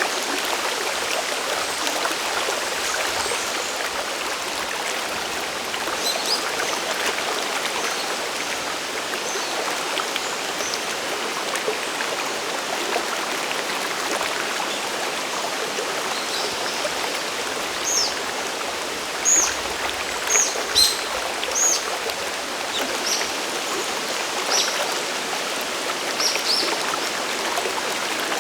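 Mountain stream water rushing steadily near a waterfall. In the second half comes a run of short high notes, a few of them louder than the water.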